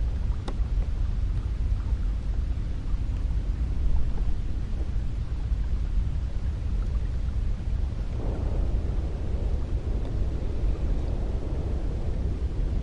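Cold wind blowing steadily in a low rumble, with a gust swelling up about two-thirds of the way through.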